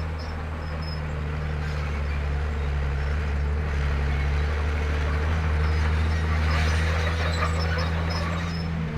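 Komatsu D31P bulldozer's diesel engine running steadily under load, with a low drone, scattered high metallic squeaks and rattling from the machine, and a swell of heavier working noise about two-thirds of the way through.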